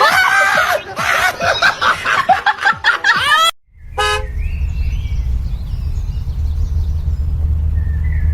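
Loud, shifting high-pitched cries or shouts for about three and a half seconds that cut off abruptly. Then a short car horn toot over a steady low vehicle rumble.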